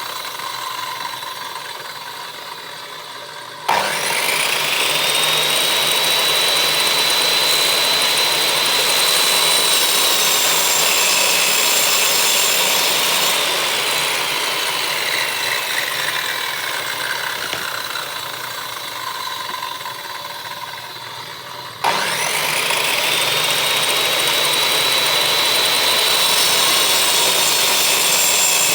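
Electric power tool on wood, switched on twice: each time the motor starts suddenly and its whine climbs quickly to full speed and holds. Between the two starts, from about halfway through, the whine slowly sinks in pitch as the motor slows and winds down.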